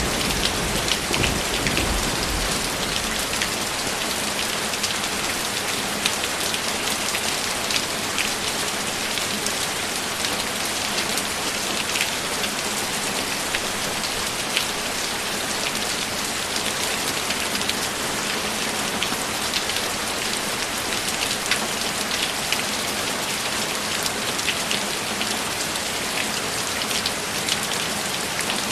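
Steady heavy rain, with close drops ticking sharply every now and then. A low thunder rumble dies away in the first couple of seconds.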